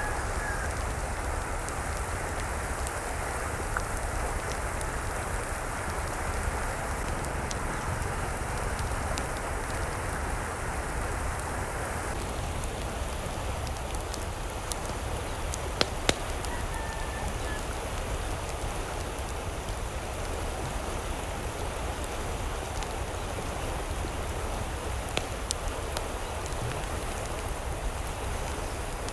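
Steady rain-like rush of falling water, its tone changing abruptly about twelve seconds in, with a couple of sharp clicks shortly after. Faint short chicken calls come through now and then.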